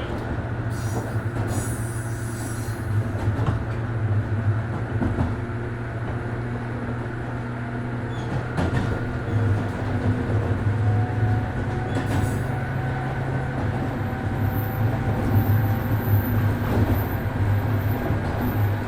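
Interior running sound of a 103 series 1500-subseries electric multiple unit travelling along the line. A steady low hum from the motors and gears runs over the rolling noise of wheels on rail, and the hum shifts in pitch and strength about halfway through.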